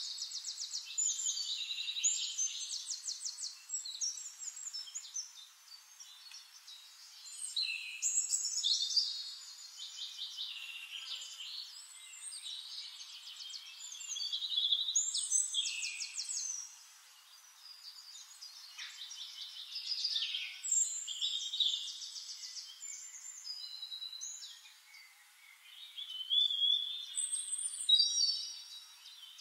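Songbirds singing continuously in fast trills and chirps, phrase after phrase with short gaps between them.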